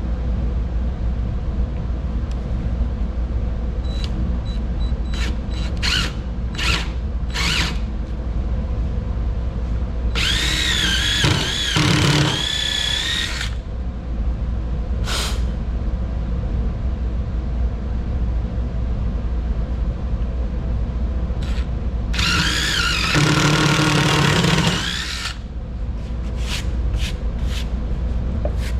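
Electric drill boring two holes into a laminated-wood workbench top. There are two runs of a few seconds each, about ten seconds in and again past twenty seconds, with a whine that wavers as the bit loads, and a few short trigger blips before them. A steady low hum runs underneath.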